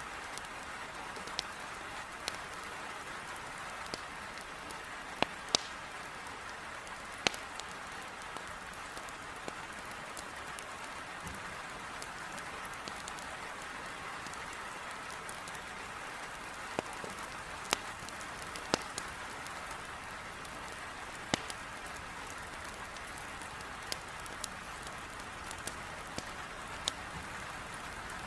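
Heavy rain beating on a window as a steady hiss, with burning firewood in a fireplace crackling on top: sharp pops at irregular intervals.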